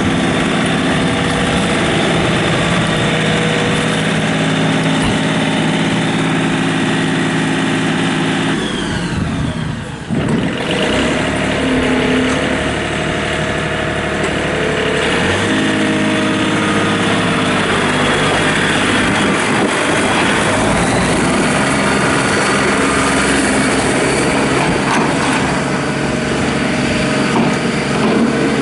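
John Deere 3720 compact tractor's diesel engine running steadily, its speed dropping about nine seconds in and then changing again a few times.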